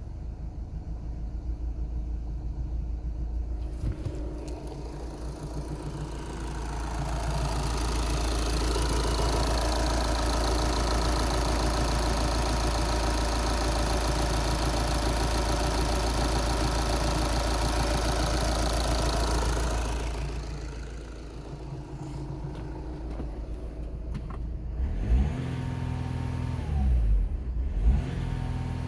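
Audi A5's 2.0 TDI CAHA four-cylinder diesel engine idling, then held at raised revs for about thirteen seconds before dropping back to idle. Near the end it is blipped twice, the pitch rising and falling each time.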